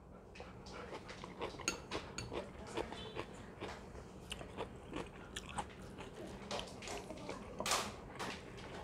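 Close-up chewing of a mouthful of crisp sliced cucumber salad: irregular wet crunches and mouth clicks, several a second, with one louder burst of noise near the end.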